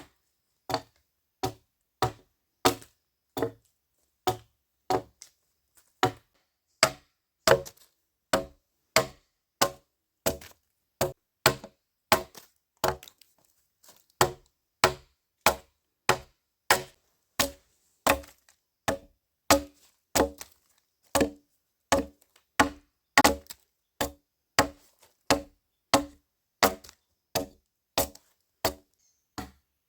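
A hand tool striking wood in a steady rhythm, about three sharp chopping blows every two seconds, each one clean with quiet between.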